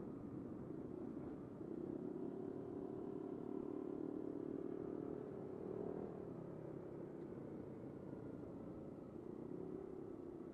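Yamaha NMAX 125 scooter's single-cylinder engine running steadily, with its hum rising slightly in pitch about two seconds in and easing off after about six seconds.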